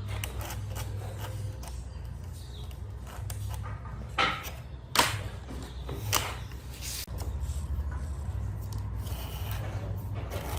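Wood being rubbed and scraped by hand, with a few sharp knocks near the middle, over a steady low hum.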